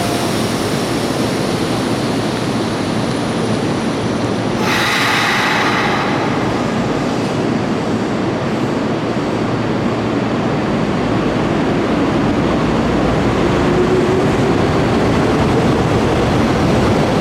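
Electric commuter train on the Hanshin Main Line running alongside the station platform, a steady rumble of wheels and motors. A short hiss comes about five seconds in, and a motor whine rises slowly near the end as the train gathers speed.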